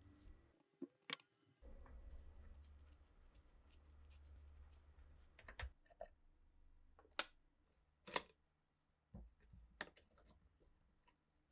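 Scattered sharp clicks and taps, about half a dozen, spaced a second or more apart, from small parts and tools being handled during a rifle restoration. A faint low hum runs beneath them.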